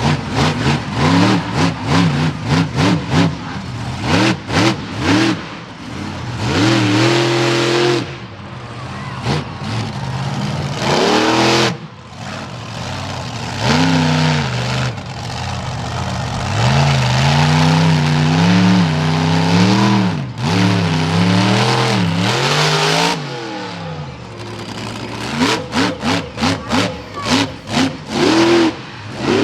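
Monster truck engine revving during a freestyle run, its pitch repeatedly climbing and falling with the throttle, with quick bursts of throttle blips near the start and again near the end.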